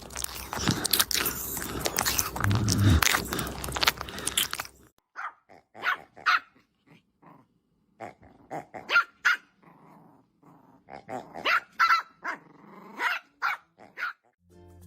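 A dog barking and growling: a loud, rough, continuous stretch for about the first five seconds, then a run of short separate barks.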